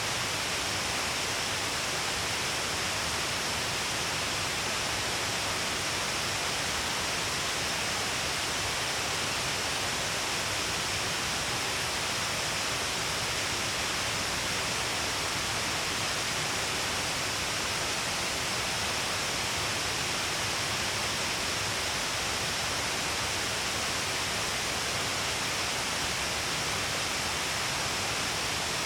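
Shiraito Falls, a wide curtain of water falling along a cliff face, making a steady, even rush of falling and splashing water with no change.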